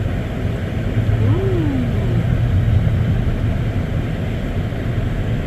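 Steady low rumble of a car driving on a snowy road, heard from inside the cabin, with a brief rising-and-falling tone a little over a second in.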